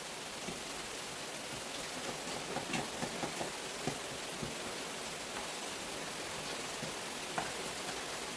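Steady hiss of heavy rain during a thunderstorm, with a few light clicks and knocks on top, most of them between about two and four seconds in and one more near the end.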